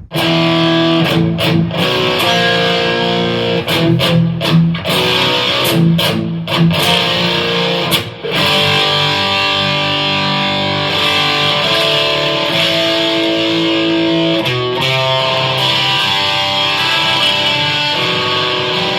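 Electric guitar with Filtertron pickups played through a Donner Dark Horizon distortion pedal with a little reverb. It opens with choppy, stopped chords, then from about halfway the chords and notes are let ring.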